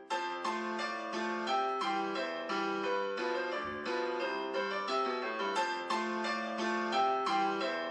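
Keyboard music: a piano-like instrument playing a steady run of quick melody notes over held chords.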